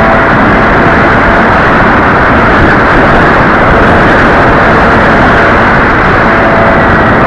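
A radio-controlled model plane in flight, heard as a loud, steady rushing noise. A faint whine from the plane's motor shows through only at the edges.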